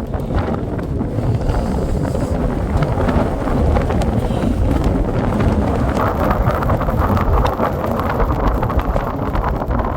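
Strong wind buffeting the microphone: a steady, loud rumbling gust noise, with many small sharp ticks scattered through it.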